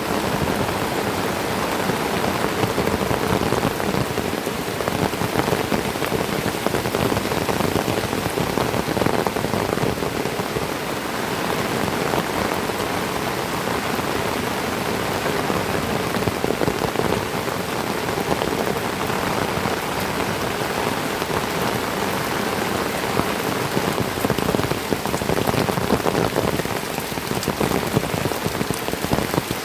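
Heavy tropical rain falling steadily, a dense, even patter of drops.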